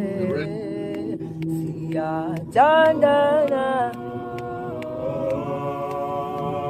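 A cappella vocal music: several voices hold long, sustained notes that glide slowly in pitch, with a louder entry swooping upward about two and a half seconds in.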